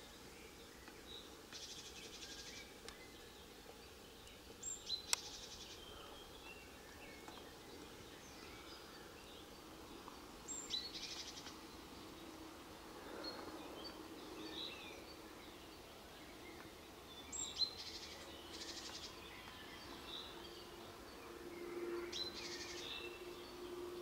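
Faint songbird calls: short high chirping phrases, each a high note dropping into a fast fluttering buzz, repeated about every five to six seconds. A sharp click comes about five seconds in.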